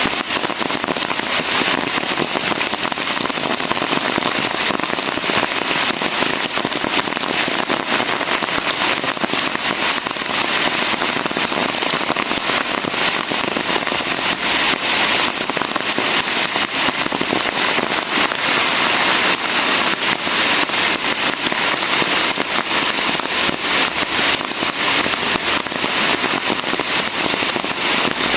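Steady rain, a dense patter of close drops.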